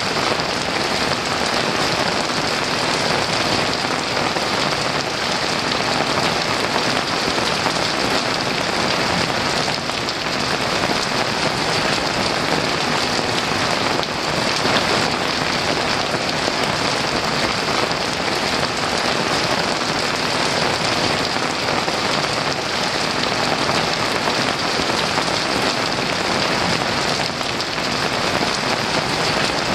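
Heavy rain pouring steadily, a dense even hiss of drops with no thunder standing out.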